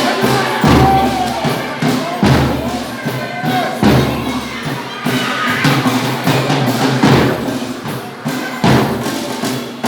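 Folia de Reis folk music: a drum struck heavily about every second and a half, under singing voices and instruments.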